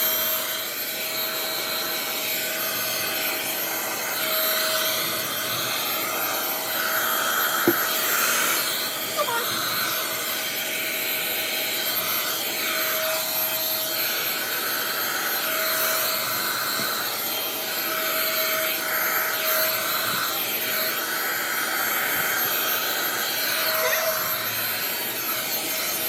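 Handheld hair dryer blowing steadily while drying a wet dog's coat, its tone shifting a little now and then. It switches off suddenly at the end.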